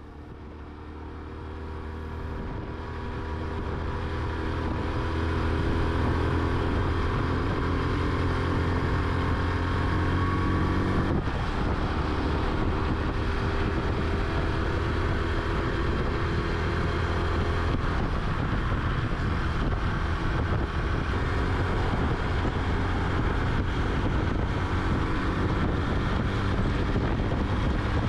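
Honda Super Cub's small single-cylinder four-stroke engine running while being ridden, its note climbing in pitch for about the first ten seconds, then breaking off and settling into a steady drone. Wind noise on the microphone runs throughout.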